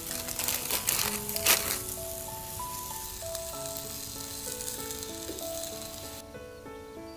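Food frying in a hot pan: a loud spitting crackle in the first second or two, then a steady sizzle that cuts off suddenly about six seconds in. Soft background music plays underneath.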